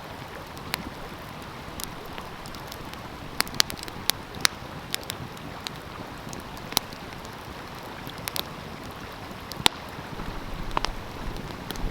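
Wood fire crackling, with sharp irregular pops and snaps, over the steady rush of a stream. A low rumble of wind on the microphone comes in near the end.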